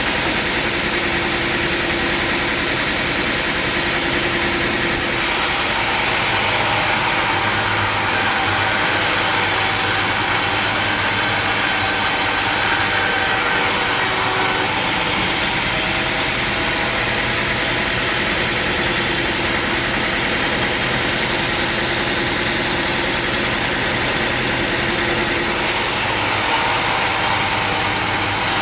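Sawmill machinery running steadily, a constant engine-like drone with no breaks.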